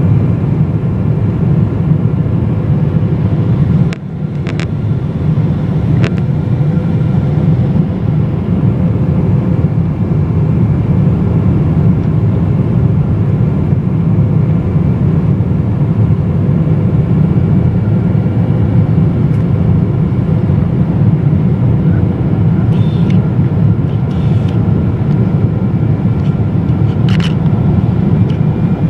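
Steady low roar of airflow and GE90 engines heard inside the cabin of a Boeing 777-200LR on approach, with a faint steady tone and a few light clicks. The loudness dips briefly about four seconds in.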